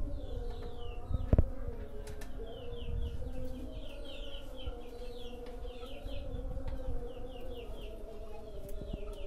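Small birds chirping in quick runs of short notes over a steady low hum, with a single knock about a second and a half in.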